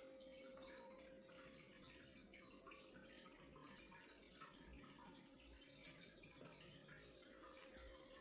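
Near silence: room tone with a faint steady hum and scattered faint ticks.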